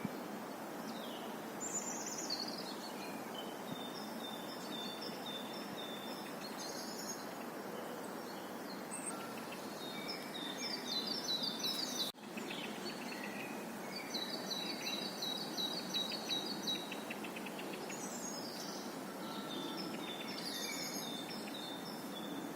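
Birds singing: series of quick high chirps and short trills, one after another, over a steady outdoor background hiss. The sound breaks off for an instant about halfway through, then the birdsong goes on.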